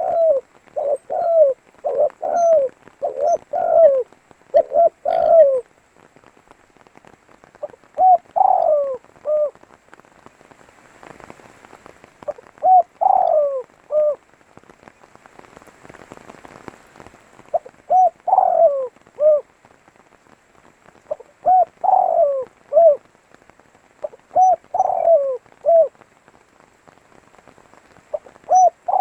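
Spotted dove (tekukur) cooing: a quick run of coo phrases over the first five seconds, then one phrase every three to four seconds. A faint hiss can be heard in the pauses.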